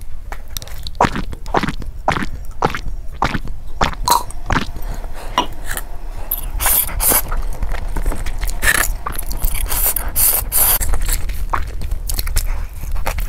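Close-miked eating sounds: chewing and crunching of food in a quick, irregular run of sharp clicks and crunches, crispest and loudest in the middle stretch.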